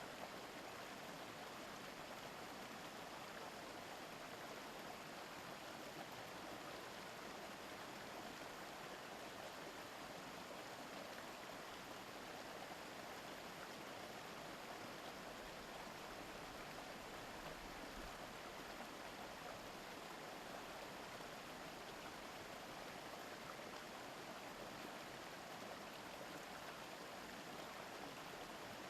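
Mountain stream babbling steadily, an even wash of running water with no breaks.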